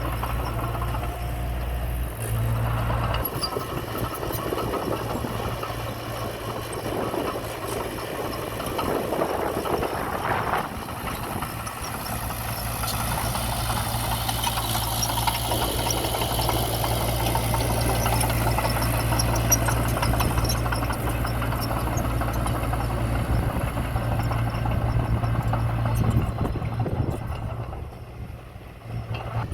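Diesel engine of heavy earthmoving equipment running steadily, with a short drop in level near the end.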